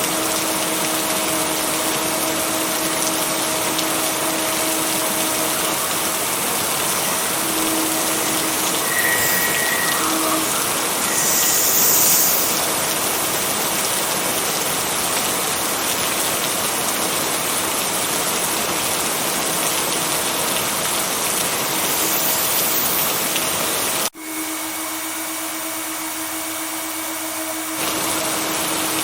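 Steady heavy rain, a dense even hiss with a low steady hum beneath it. About 24 seconds in it cuts abruptly to a thinner, quieter rain for a few seconds, then the full sound resumes.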